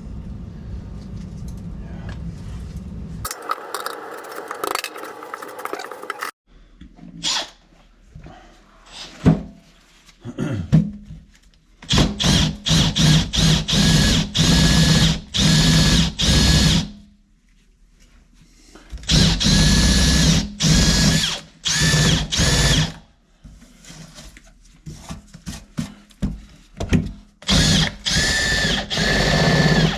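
A handheld power tool, drill-type, running in repeated short trigger bursts with a high motor whine, in three clusters. Before them a steady low hum stops about three seconds in, followed by a few seconds of clattering.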